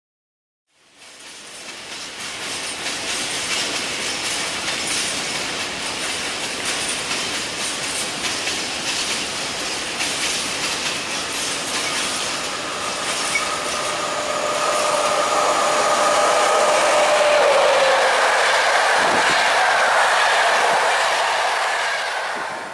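Train running on the rails, its wheels clattering over the track. A whining tone joins about twelve seconds in, and the sound grows louder as the train comes closer, then cuts off at the end.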